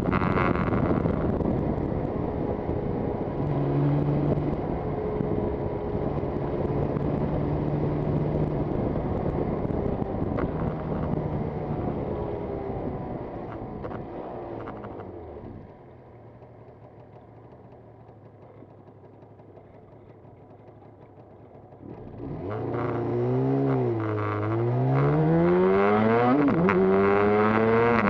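Yamaha TZR250 two-stroke motorcycle on the move, with wind rushing over the microphone. About halfway through the noise drops away for roughly six seconds, then the engine revs up and its pitch rises again and again as the bike accelerates through the gears.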